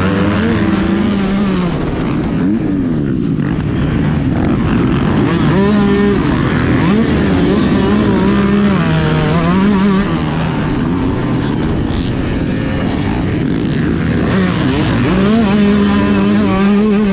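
Motocross bike engine running hard, its pitch rising and falling repeatedly with throttle and gear changes, over a steady rush of noise.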